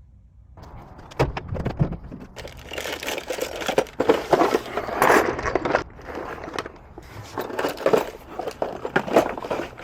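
Rustling and crinkling with many irregular clicks and knocks of things being handled, starting about half a second in.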